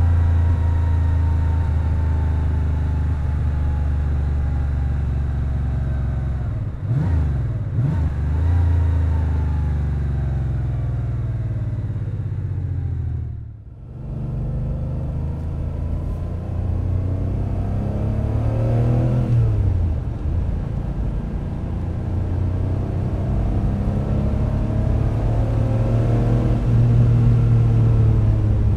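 Porsche 911 G-model's air-cooled flat-six running through a sport exhaust muffler with dual center outlet pipes while driving. The revs fall at first, with quick gear changes about seven seconds in. The sound dips briefly about halfway, then the revs climb again with another shift near twenty seconds in.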